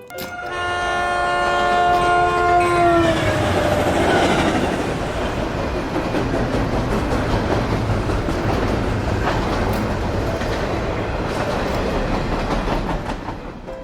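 A train passing with its horn blowing: a held multi-tone horn chord drops in pitch and stops about three seconds in. Then the rumble and clickety-clack of the cars running by, fading away near the end.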